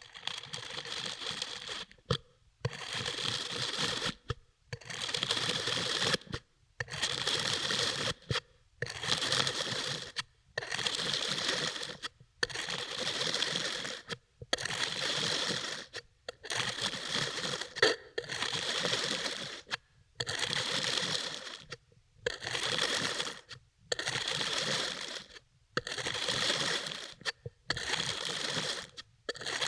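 Kinetic sand being cut, about fourteen slow strokes of soft grainy scraping, each lasting a second or so with short silent pauses between them.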